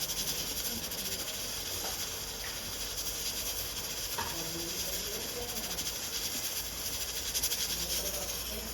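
Onion and spices frying in oil in a pan: a steady sizzle with fine crackle.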